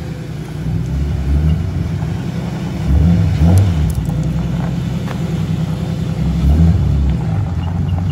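Car engine idling with a low rumble, revved up three times: about a second in, around three seconds in, and near seven seconds.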